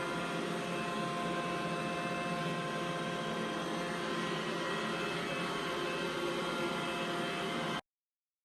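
iRobot Roomba i7+ robot vacuum running, a steady whir with a high motor whine in it, which cuts off suddenly near the end.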